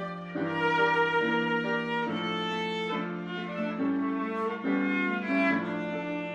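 Instrumental music: a slow melody in violin-like bowed strings over held chords, the notes changing about once a second.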